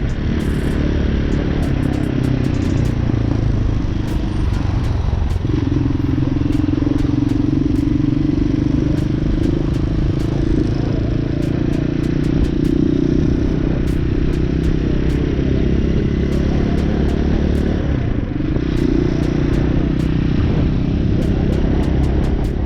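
Hawk 250 dual-sport motorcycle's single-cylinder engine running under way at a fairly steady road speed. Its note dips briefly about eighteen seconds in, then picks up again.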